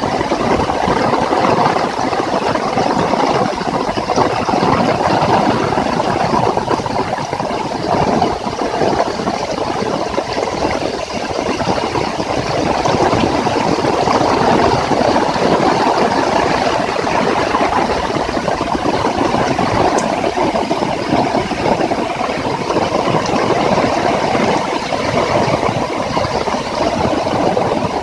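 Heavy rain falling in a steady, dense patter.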